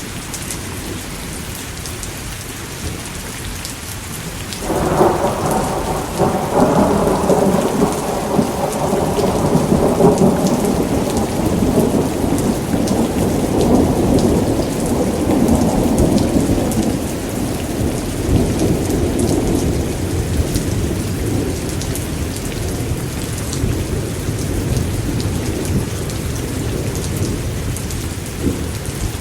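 Steady heavy rain with a thunderstorm. About five seconds in, a loud peal of thunder breaks in suddenly and rumbles on for over ten seconds before fading back under the rain.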